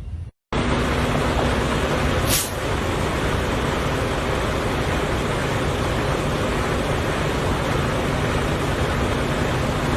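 Steady road and engine noise from a moving vehicle, with a faint hum underneath and a brief falling swish about two seconds in.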